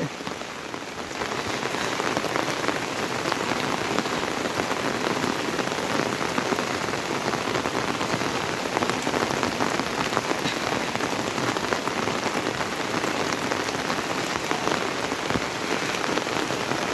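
Steady monsoon rain, a dense patter of drops, a little softer for about the first second and then even throughout.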